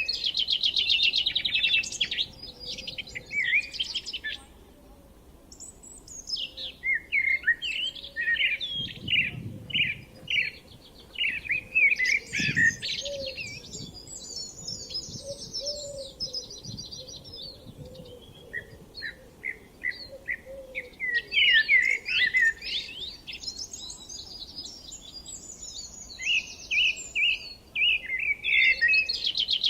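Songbirds singing in spring: long, rapid, varied phrases full of fast trills and chirps, with two brief pauses.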